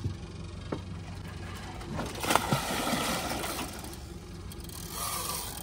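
Boat motor idling with a steady low hum, with a brief rush of noise about two seconds in lasting over a second and a smaller one near the end.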